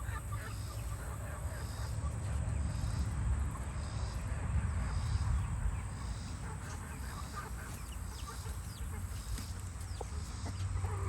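Backyard chickens clucking softly now and then, over a steady low rumble and a faint high chirring that pulses about once a second.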